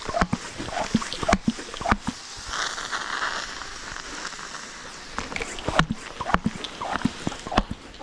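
Irregular sharp knocks and clicks, with a brief rustling hiss between about two and four seconds in.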